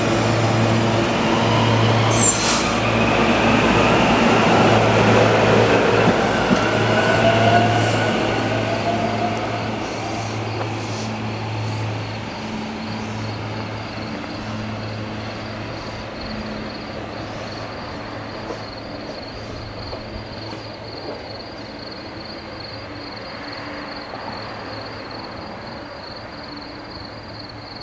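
SEPTA Silverliner V electric multiple-unit commuter train pulling out and running past on the rails, with a rising whine as it picks up speed about six seconds in. The sound then fades steadily as the train draws away down the line.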